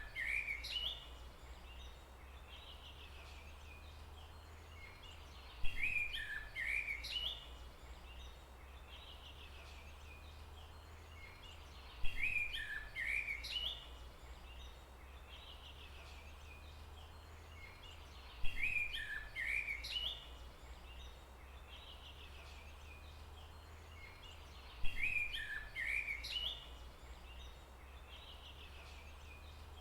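A songbird's short chirping phrase, about two seconds long, repeating in the same form about every six seconds. Each phrase opens with a sharp click, over a steady low rumble.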